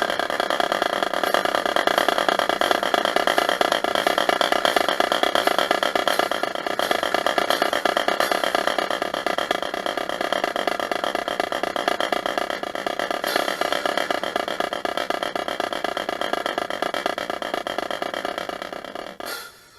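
Marching band drumline playing very fast, dense drumming over a steady held chord, starting and stopping abruptly.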